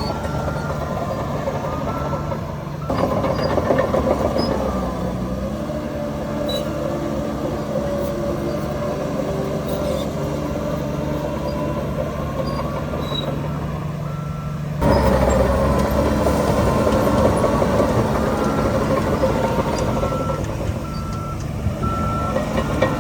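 Diesel engines of heavy earthmoving machinery running steadily, with a reversing alarm beeping in short runs near the start and again near the end. The sound changes abruptly twice, about three seconds in and about fifteen seconds in.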